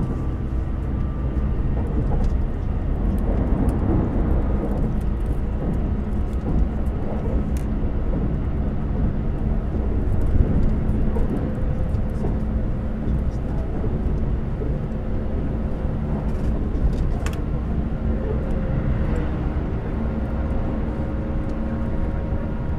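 Interior running noise of a Keikyu 2100 series electric train at speed: a steady low rumble of wheels on the track with a motor hum carrying a few steady tones, and a few short clicks from the rails.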